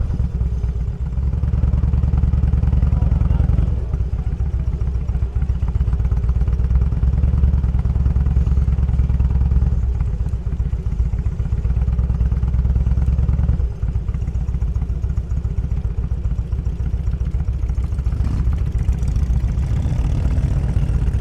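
Motorcycle engine running at low road speed, its exhaust pulsing steadily, with the note shifting briefly about four seconds in and again around fourteen seconds in.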